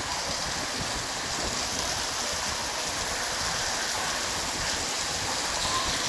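Steady rain falling during a storm, an even rushing hiss.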